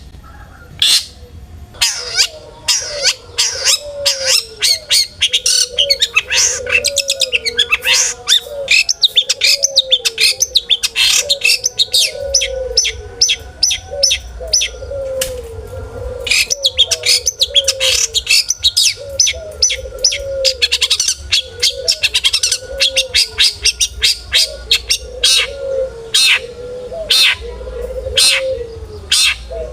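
Long-tailed shrike (cendet) singing energetically: a dense, fast run of sharp chirps and harsh notes. A low, curving note repeats about once a second underneath.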